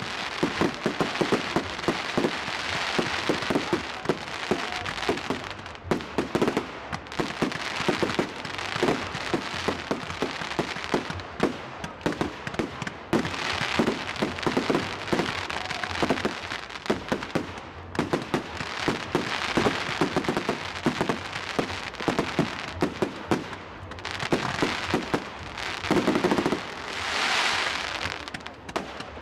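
Fireworks display: a continuous barrage of sharp bangs and crackles, several a second, over a hissing haze, with a louder hissing, crackling swell near the end.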